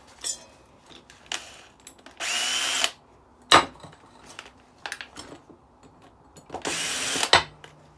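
Power drill-driver run in two short bursts, each under a second, undoing screws from a decking light's machined aluminium body. Between the bursts come a few sharp knocks of metal parts being handled.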